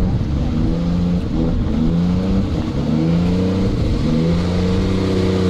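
Drift car engine revving hard, its pitch climbing and dropping in steps as the throttle and gears change.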